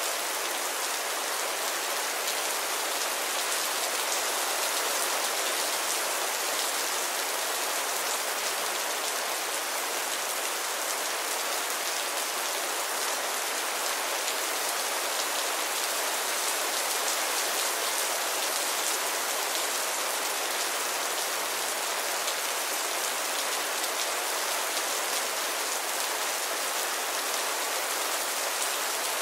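Heavy rain falling steadily: an even hiss of many drops, unchanging throughout.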